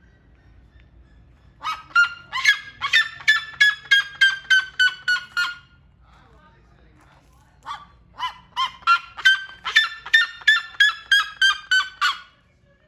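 Seriema calling in two long bouts of loud, rapidly repeated yelps, about three or four a second, each bout sliding slightly lower as it goes. There is a short pause between the bouts.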